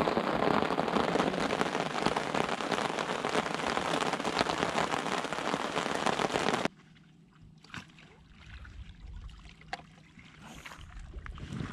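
Heavy rain pelting down, a dense, crackling patter of drops, which stops abruptly about two-thirds of the way through. After that it is quiet, with a few faint clicks and knocks.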